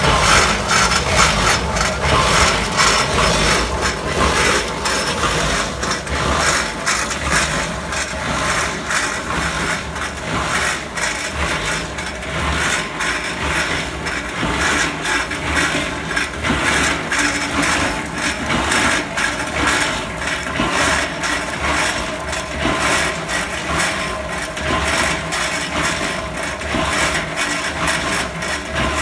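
Sand and pea gravel tumbling inside a metal gas tank turned by a concrete mixer: a dense, steady rattle of small impacts against the tank walls over the mixer's running drive.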